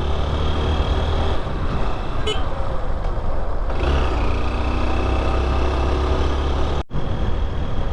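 Motorcycle riding sound: heavy wind noise on the rider's microphone over a running engine. The sound breaks off for an instant near the end.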